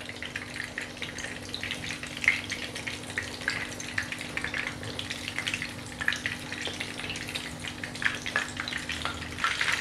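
Egg-coated chicken skewers shallow-frying in hot oil in a nonstick pan on a low flame: a steady sizzle with many small crackling pops.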